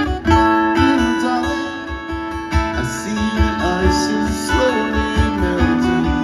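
Live music led by a strummed acoustic guitar, played with a steady beat.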